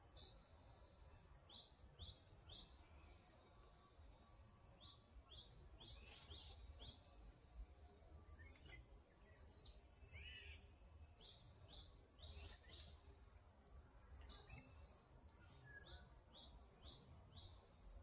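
Faint woodland birdsong: short, high, falling chirps, mostly in quick runs of three or four, with a few louder calls. A steady high insect buzz runs underneath.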